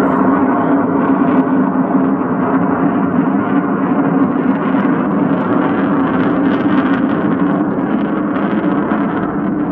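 Jet aircraft engine running steadily, a loud continuous hum with a strong low drone.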